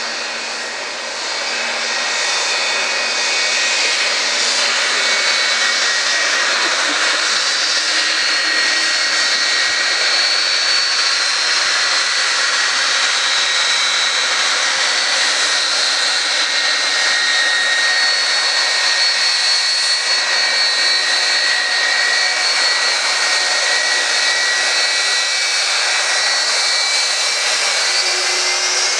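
Jet airliner engines running, a loud steady roar with a high whine over it; the whine rises in pitch near the end.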